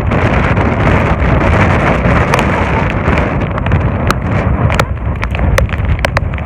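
Wind buffeting the microphone, a loud, steady low rumble, with scattered sharp ticks throughout.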